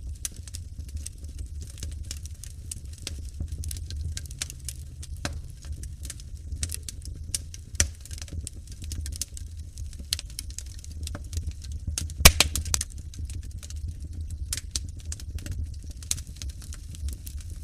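Wood fire crackling in a fireplace: a steady low rumble under frequent sharp crackles and pops, with one louder pop about twelve seconds in.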